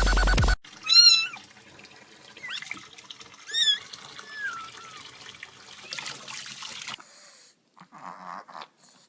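A cat meowing: one loud meow about a second in, then a few shorter meows over the next few seconds, over a faint steady hiss.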